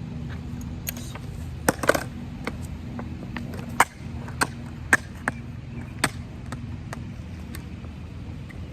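Irregular sharp metallic clicks and knocks from a skate tool working the kingpin nuts of new skateboard trucks, a small cluster about two seconds in and single clicks after. The trucks are being tightened because they ride too loose.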